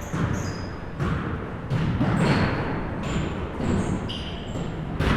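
A basketball bouncing irregularly on a hardwood gym floor, about eight sharp bounces in five seconds, echoing in the hall. Short high sneaker squeaks come in between the bounces.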